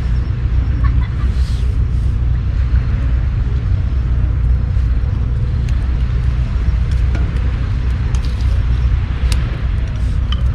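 Wind buffeting the microphone as a steady, loud low rumble, with a few sharp pops from the crackling campfire, the sharpest about nine seconds in.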